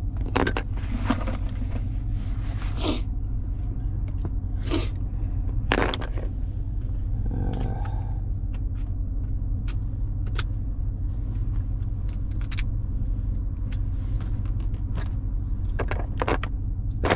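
Chevrolet Silverado's V8 idling steadily, with scattered clicks and scrapes of small objects being handled over it.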